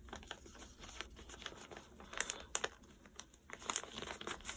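A sheet of paper rustling and crinkling as it is handled and folded, with short crackles and soft creasing strokes, a little louder about halfway through and again near the end.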